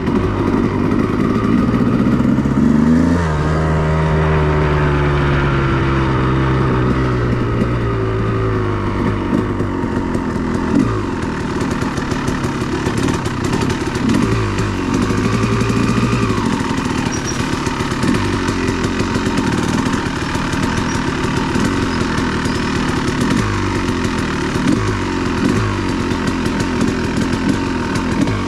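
2002 Honda CR250R's two-stroke single-cylinder engine being ridden, revving up and down. The pitch climbs sharply to a peak about three seconds in and falls away slowly over several seconds, then rises and drops again in a string of shorter throttle blips.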